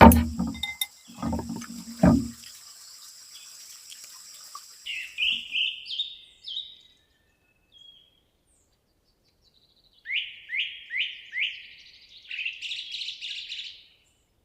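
Wild bird calling: a few short falling notes, then after a pause a run of four quick falling notes followed by a chattering trill. A few low thumps and a steady high-pitched hiss come before the calls.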